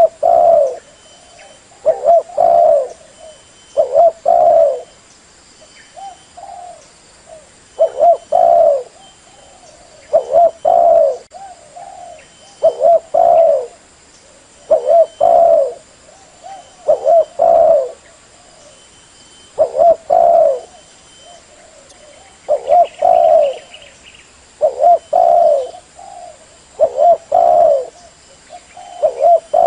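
Female spotted dove cooing in short, loud phrases repeated about every two seconds. It is a call that rouses caged male decoy doves to answer.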